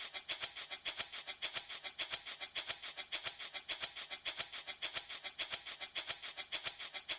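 Handmade baby rattle shaken in a steady, quick rhythm, about six or seven crisp shakes a second with a bright, hissy rattle of beads.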